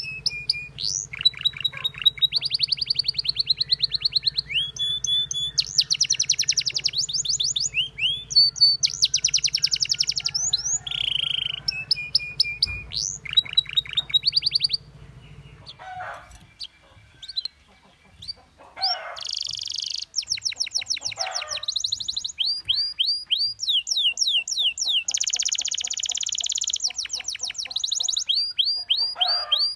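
Domestic canary singing: long fast trills and rolls of rapidly repeated notes, broken about halfway through by a few quieter seconds of softer calls before the trilling song resumes.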